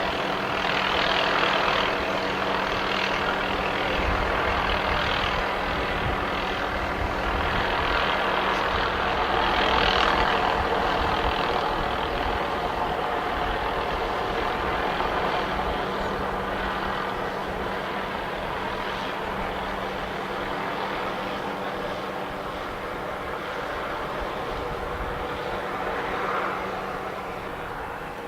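Boeing 737-800's CFM56 jet engines running with a steady rush and two low steady tones, the sound slowly fading. The low tones drop out about three quarters of the way through.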